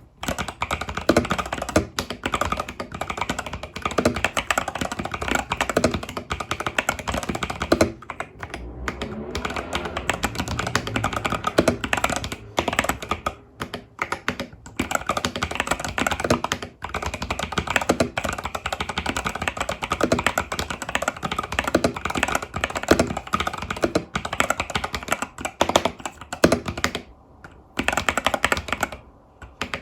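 Epomaker TH80 Pro mechanical keyboard with Epomaker Budgerigar tactile switches and stock keycaps being typed on: a fast, continuous stream of key clicks with a few brief pauses.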